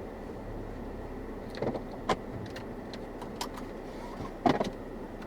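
Steady road and engine noise of a moving car, with a few sharp clicks and knocks about two seconds in and a louder knock about four and a half seconds in.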